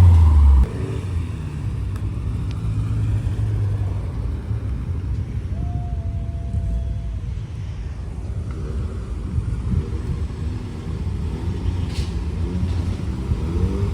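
Car engine running loud, then dropping away suddenly about half a second in, leaving a steady low engine rumble. A short steady tone sounds briefly midway.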